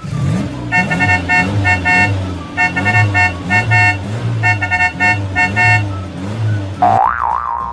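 Sound effect of cars driving: an engine running with a pulsing note, and a car horn tooting in quick groups of short beeps. Near the end, a brief wavering tone.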